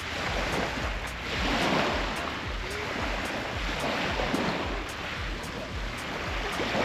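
Black Sea waves washing onto the shore, swelling and fading every couple of seconds.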